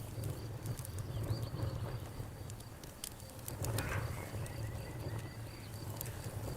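Campfire crackling, with sharp irregular pops over a low steady rumble of burning. A high, evenly pulsing chirp runs in the background.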